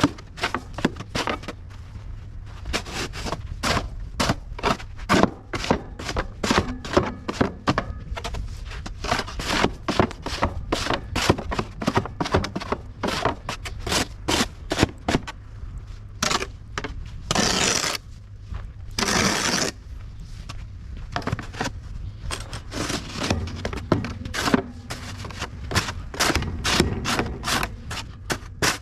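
Footsteps crunching through fresh snow at an uneven pace, with two longer scraping crunches about two-thirds of the way through.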